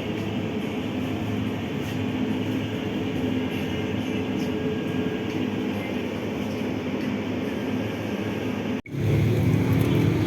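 Steady rumble and running noise of a moving passenger train, with a faint hum running through it. Near the end it cuts off sharply and a louder, lower rushing noise takes over.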